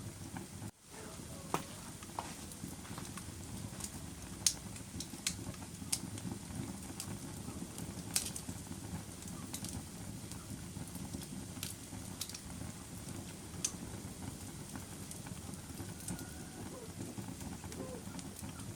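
Fire burning in a fireplace: a steady low rushing of flame with sharp, irregular crackles and pops. The sound drops out for a moment about a second in.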